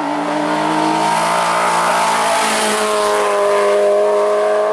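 Rally car engine running hard up a hillclimb course, its pitch climbing steadily through the second half as the car accelerates.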